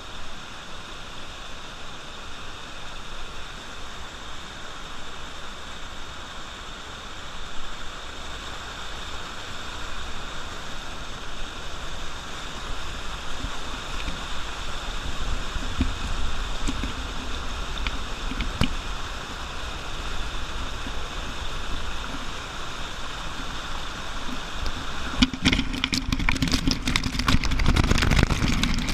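Steady rushing of a waterfall. Near the end, irregular wind buffeting and rumble on the microphone grows louder over it.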